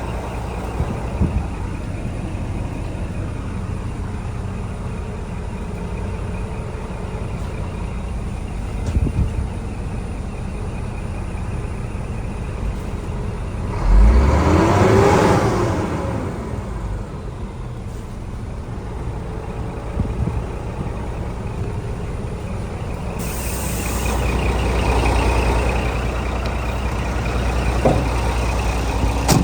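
Scania R480 dump truck's diesel engine running steadily. About halfway in it gets louder for a couple of seconds, with the pitch sweeping up and down, and a hiss comes in later.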